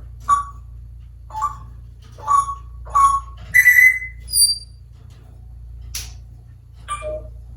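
African grey parrot whistling and calling: a string of short whistled notes, roughly one a second, with the longest and loudest whistle a little before halfway, followed by a couple of high notes. A single sharp click comes near the end.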